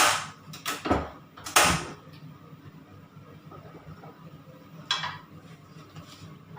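Several clanks and knocks of a cooking pan being handled on the stove, closely spaced in the first two seconds, then a faint low hum with one more short scrape about five seconds in.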